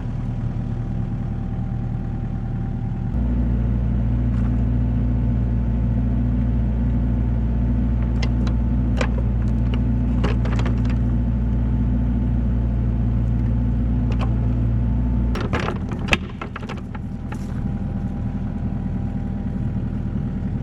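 Compact excavator diesel engine running. It steps up in speed about three seconds in and drops back to idle about fifteen seconds in. Sharp metal clanks and knocks come in the middle and again just after the drop.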